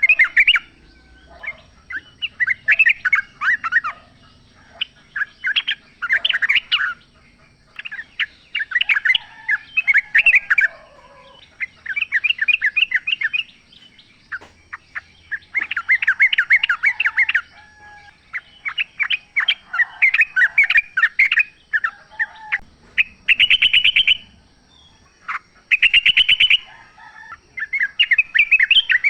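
Yellow-vented bulbuls (trucukan) singing in the wild: repeated bursts of rapid chattering notes, each one to two seconds long, with short pauses between. Two bursts about two-thirds of the way through are louder.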